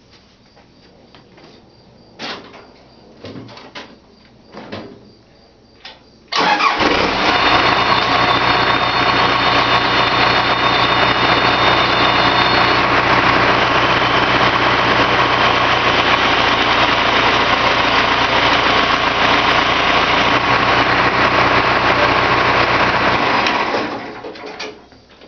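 A few knocks, then an engine starts running suddenly about six seconds in, holds a steady speed and shuts off a few seconds before the end.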